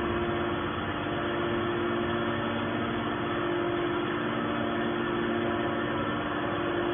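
Hydraulic scrap steel baler running, its motor and hydraulic pump giving a steady hum.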